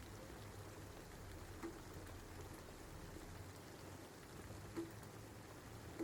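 Steady rain, with a few single louder drips landing, about two and five seconds in.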